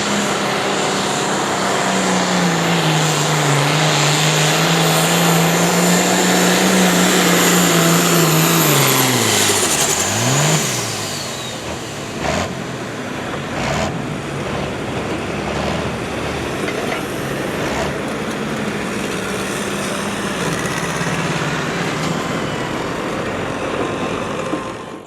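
Pulling vehicle's engine running hard under load down the pull track, its pitch wavering, then dropping steeply about ten seconds in as it comes off the throttle, with one short blip of revs. After that a quieter wash of engine and background noise with a few sharp knocks.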